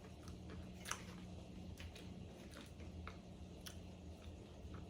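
Faint chewing and crunching of KFC Extra Crispy fried chicken: a handful of scattered crisp clicks, the clearest about a second in.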